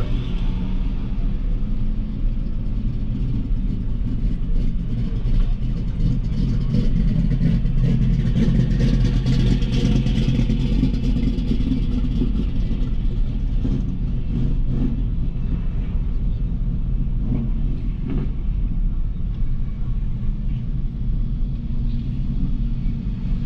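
Car engine running low and steady at crawling speed, with tyre and road noise, heard from inside the cabin.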